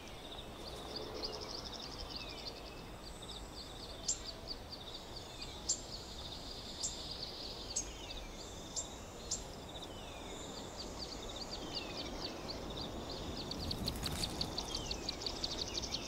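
Small birds calling over a soft background hiss: sharp high chirps about every second for a few seconds, short falling notes, and a fast steady high trill that grows busier near the end.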